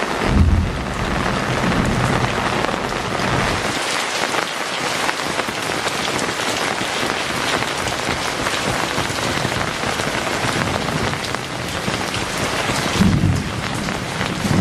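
Heavy rain falling steadily, a dense even patter. Brief low rumbles come about half a second in and again near the end.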